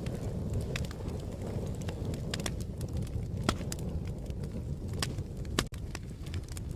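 Fire crackling: a steady low rumble of burning with sharp pops and snaps at irregular intervals.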